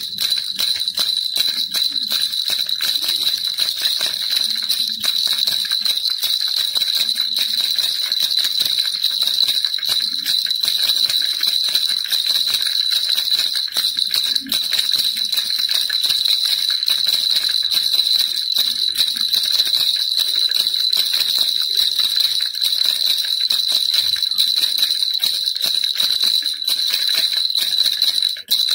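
Baby rattle shaken without pause, a dense jingling rattle with a steady high ringing tone, briefly breaking off near the end.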